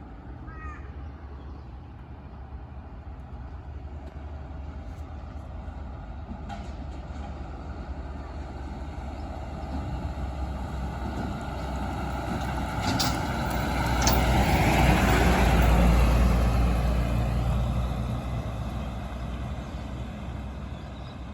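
Garbage truck engine running as the truck approaches, loudest about two thirds of the way through, then moving away and fading. A couple of short sharp ticks come just before the peak.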